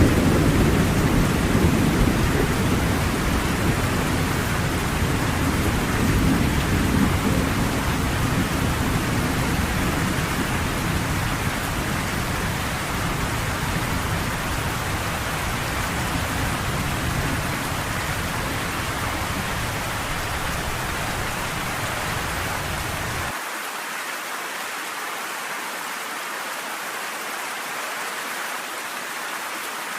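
Steady rain with a low rumble of thunder that dies away slowly over the first twenty seconds. A little over twenty seconds in, the deep rumble cuts off suddenly, leaving only the hiss of the rain.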